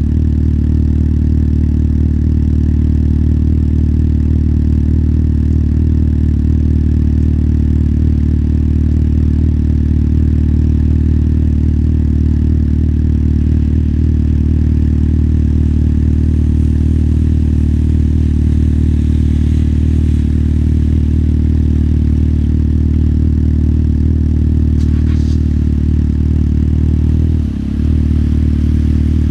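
Motorcycle engine running steadily at an unchanging pitch, heard from the rider's seat. A short sharp sound comes about 25 seconds in, and the engine note dips briefly near the end.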